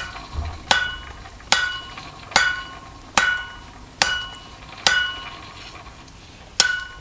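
Hand-forging: a hammer striking metal in a steady rhythm, about one blow every 0.8 seconds, each blow ringing briefly. There are eight blows, the last after a longer pause near the end.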